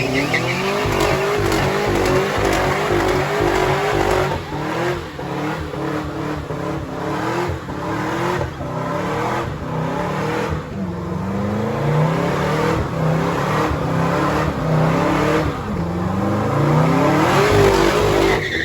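Car engine revved hard with the throttle pulsed so the pitch bounces up and down repeatedly, over the hiss of tyres squealing as the car drifts.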